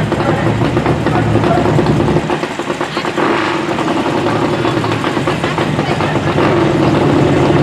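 Muscle car engines idling with a steady, uneven rumble.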